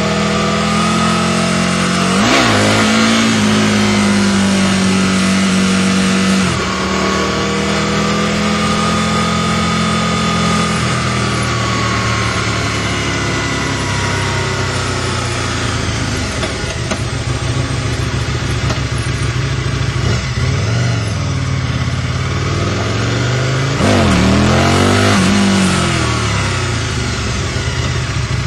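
Aprilia RSV Mille's 60-degree V-twin through a Micron aftermarket exhaust, running under way with gear changes: the revs drop sharply about six seconds in and wander up and down later, with a quick rise and fall in revs near the end.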